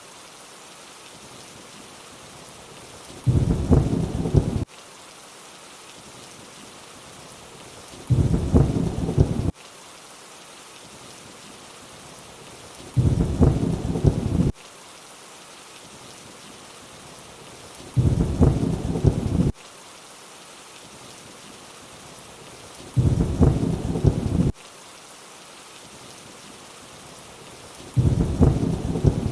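Steady rain hiss with a short, low rumble of thunder about every five seconds. Each rumble is louder than the rain and starts and stops abruptly, like a repeating loop.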